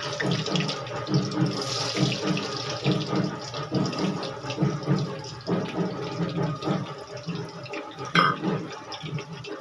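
Potatoes sizzling and crackling as they deep-fry in hot oil in a kadhai, a steady dense crackle of small pops.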